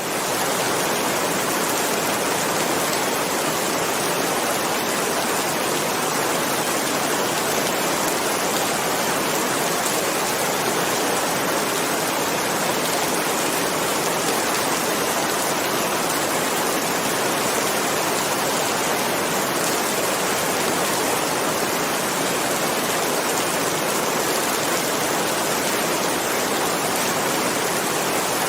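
Heavy rain falling steadily: a dense, even hiss that holds the same level throughout.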